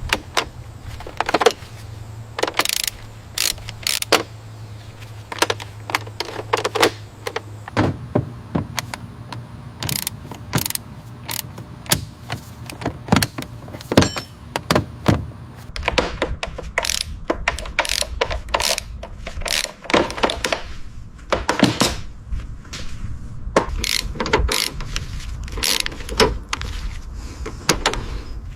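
Irregular mechanical clicks and knocks of hands and tools working on car parts, over a steady low hum.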